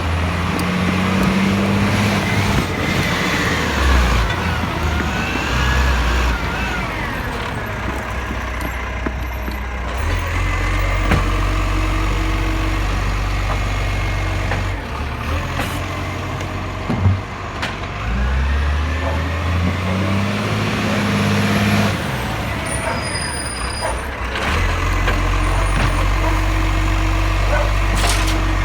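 Garbage truck's diesel engine running and repeatedly revving up and settling back, with air-brake hissing.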